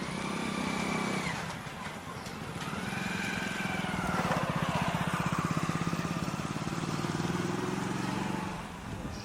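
Tractor engine running with a steady, fast firing beat that swells louder through the middle and drops back near the end, with a higher tone rising and falling over it twice early on.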